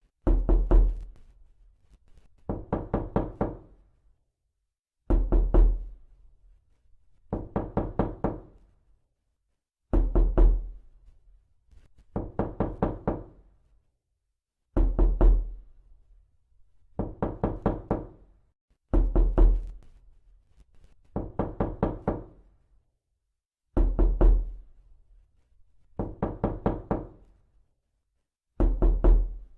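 Knocking in repeated bursts of five or six quick knocks, one burst about every two and a half seconds, with silence between.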